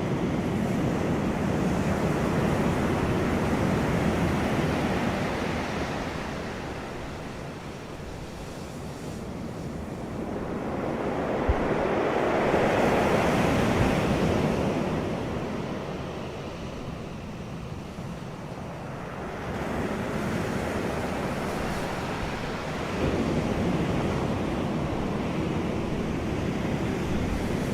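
Wind rushing in gusts, swelling and easing about every ten seconds.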